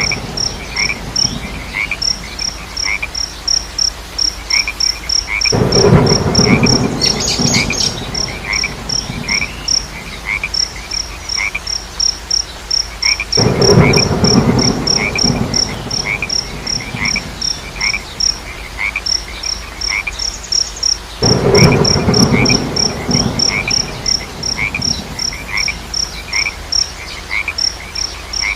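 Frogs croaking in loud pulsing bouts of two to three seconds, about every eight seconds. Between the bouts, crickets keep up a steady train of short high chirps, several a second, over a slower chirping call about twice a second.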